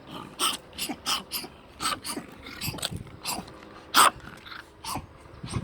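Dogs barking in a string of short, sharp barks at uneven intervals, the loudest about four seconds in.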